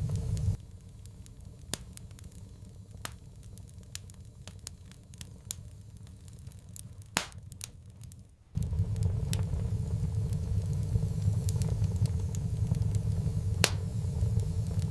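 Wood fire crackling in a fireplace, with scattered sharp pops and snaps. A low rumble under the crackle drops away about half a second in, leaving only the pops, and comes back about eight and a half seconds in.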